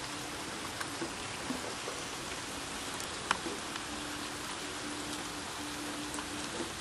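Steady rain falling, an even hiss with scattered drip taps and one sharper tap about three seconds in. A faint low hum comes and goes under it.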